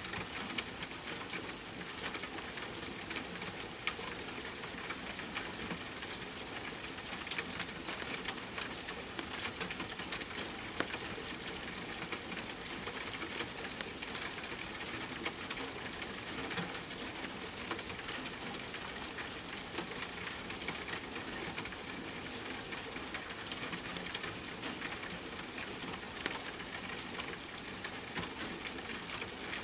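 Steady rain mixed with the irregular small pops and crackles of a wood fire burning in a fireplace.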